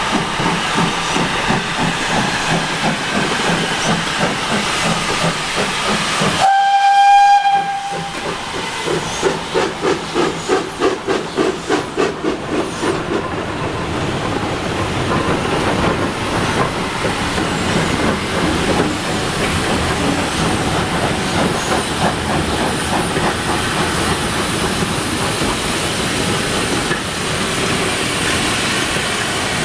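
Steam locomotive sounds its whistle once, briefly, about six and a half seconds in. A quick run of exhaust beats follows, about three a second, over steady hissing and running noise.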